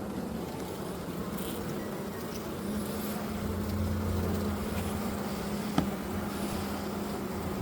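Honeybees buzzing around an open hive: a steady hum that grows stronger about three seconds in, with a single sharp click near six seconds.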